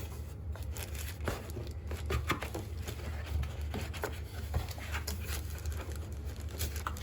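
Cardboard box and its packaging being handled and opened: scattered light taps, knocks and rustles over a steady low hum.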